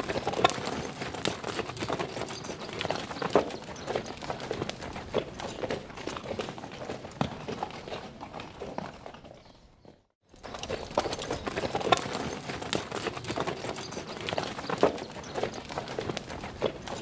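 Horse hoofbeats on the ground, a dense, irregular clatter of knocks. It fades out about ten seconds in and, after a brief silence, starts again.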